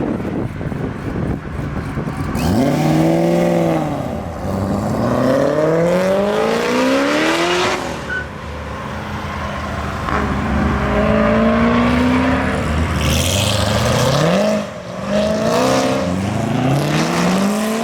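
Car engines revving and accelerating hard, one after another, in a series of rising pulls, with one brief rev that rises and falls early on.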